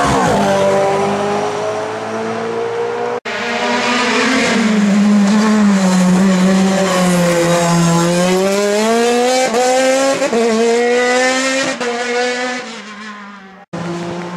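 Hill-climb race car engines at high revs, the pitch dipping and climbing as the cars accelerate and change gear. The sound cuts off abruptly twice and starts again.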